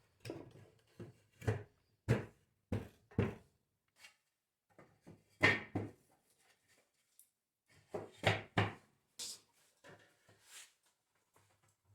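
Short knocks of hand-tool work on wood: six at an even pace of a little under two a second, then a few scattered ones.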